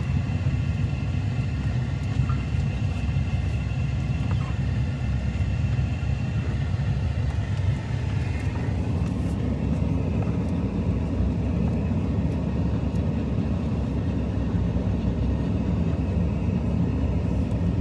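Truck carrying a camper body, driving: a steady engine and road rumble with a faint steady whine above it.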